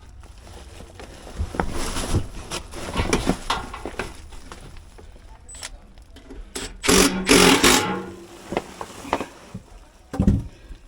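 Hands and tools working on an HVAC blower motor assembly: scattered knocks, clicks and rustling, with a louder clatter lasting about a second around seven seconds in and another knock near the end.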